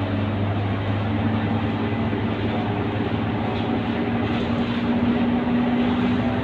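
Scania K230UB city bus running on the road: a steady engine and drivetrain drone, with a whine that climbs slowly in pitch as the bus gathers speed.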